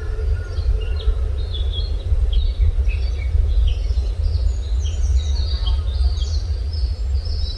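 Several wild songbirds chirping and calling in many short, quick notes that overlap one another, over a steady low rumble.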